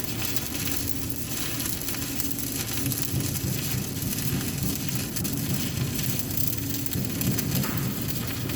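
Electric arc welding: the arc burning steadily with an even frying hiss, over a low steady hum.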